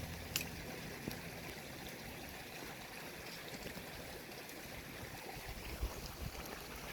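River water flowing steadily, with a couple of faint clicks in the first second or so.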